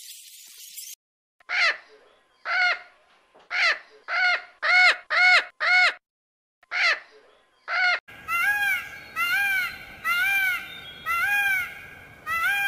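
Scarlet macaws giving a series of short, harsh squawks in uneven bunches. About eight seconds in, an Indian peacock takes over with repeated calls, about one a second, over outdoor background noise.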